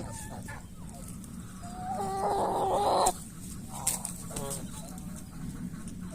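Chickens clucking in short calls, with one louder drawn-out call lasting about a second around the middle that cuts off abruptly.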